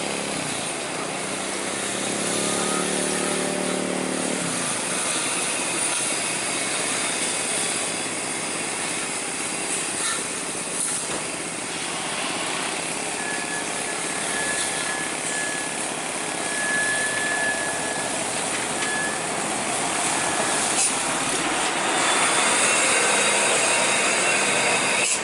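Road traffic with heavy trucks passing: an even rush of engine and tyre noise, with one engine's hum standing out about two to four seconds in and a thin steady high whine for several seconds in the middle.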